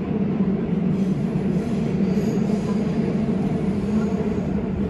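Train running on the rails: a steady low rumble of the ride, with a faint high wheel squeal about halfway through.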